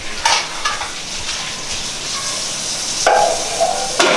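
Poha frying in a steel wok with a steady sizzle as a metal spatula stirs it. There are a few sharper scrapes of metal on metal, one near the start and one near the end.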